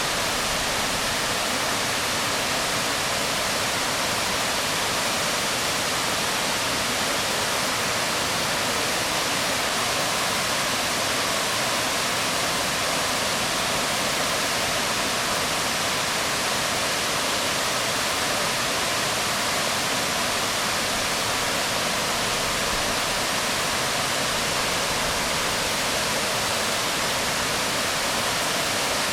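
Waterfall splashing onto rocks: a steady, unbroken rush of water.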